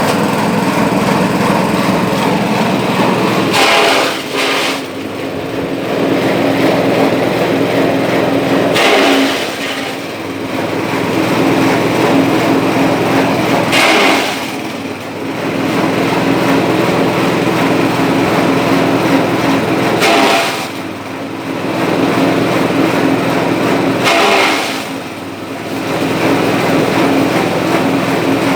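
Engine-driven livestock fodder chopper running steadily, with a short burst of louder cutting noise about every five seconds, each followed by a brief dip in the engine sound.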